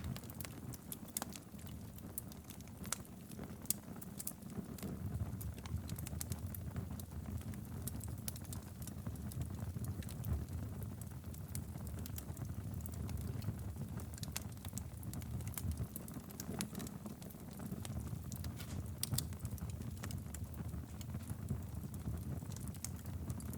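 Wood fire burning in a fireplace: a steady low rumble of flame with frequent small, scattered crackles and pops.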